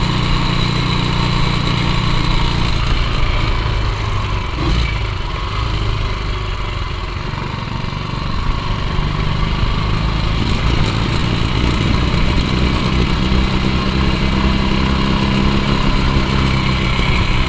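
1958 Ducati 175 Sport's single-cylinder four-stroke engine running on the road. Its note drops about four seconds in, stays lower for a few seconds, then rises again from about nine seconds in as the bike picks up speed.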